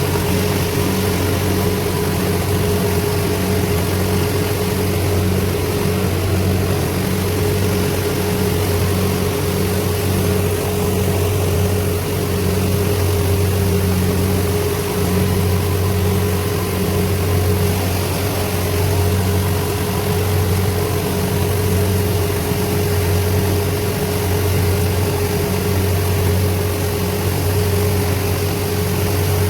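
Farm machinery engine running steadily at constant speed: a low drone with a thin steady whine above it.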